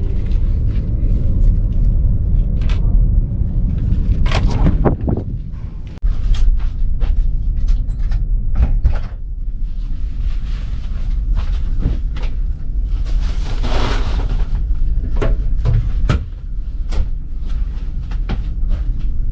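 Laundry machines running with a steady low rumble, over scattered clicks, knocks and door-like clunks, with two short rushing noises about ten and fourteen seconds in.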